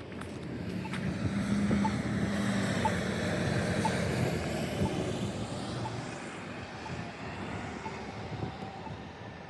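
A vehicle passing along the street, its sound swelling to a peak about two seconds in and then slowly fading away.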